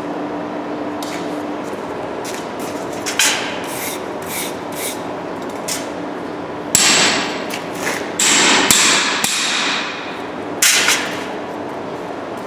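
Hammer blows on a steel strip in a grooving jig, forming a groove in the hot metal: a series of irregular metallic strikes, the loudest and longest-ringing ones in the second half.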